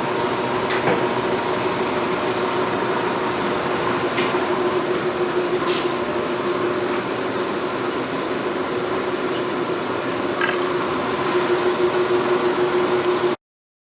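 A forge running: a steady roar with a low, even hum and a few light clicks, cut off suddenly near the end.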